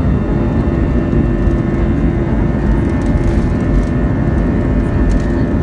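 Airbus A321 airliner's jet engines running with a loud, steady rumble and a constant droning hum.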